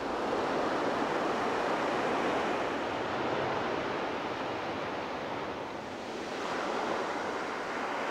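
Ocean surf breaking and washing up a beach: a continuous rush of waves that swells, eases about six seconds in, then builds again with the next wave.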